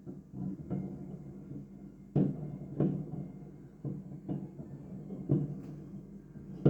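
Fireworks display bursts: a run of dull booms at irregular intervals, roughly one or two a second, the loudest about two seconds in.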